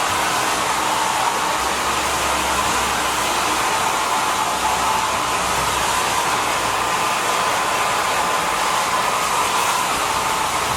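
Holistic Cure Dryer Rp. hair dryer running steadily in its quick-dry Airy mode at strong airflow: an even rushing hiss with a faint steady whine.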